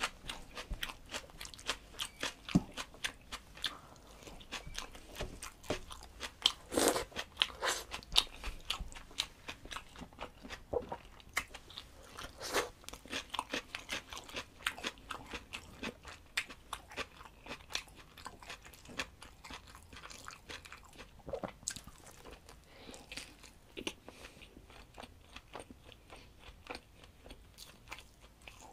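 A person chewing a hand-eaten mouthful of rice and egg close to the microphone: a steady run of quick wet mouth smacks and crunches, loudest about seven seconds in.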